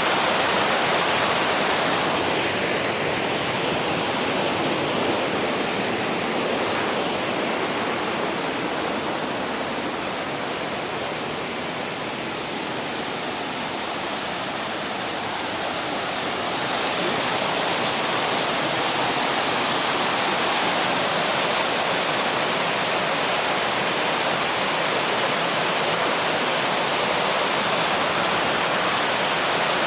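Steady rush of a mountain waterfall, easing a little in loudness midway and then rising again.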